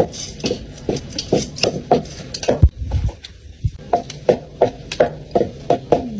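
Kitchen utensil strikes in quick succession, about three a second, with a brief pause after the loudest knock, a low thump about two and a half seconds in, before the strikes resume.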